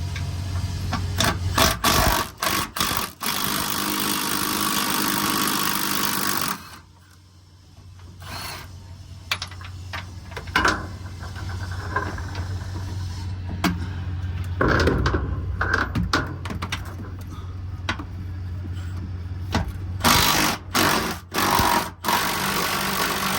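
Power wrench running in bursts as it backs out the 18 mm bolts holding a fuel tank: a long run at the start, a short burst midway, and several quick stop-start bursts near the end, over a steady low hum.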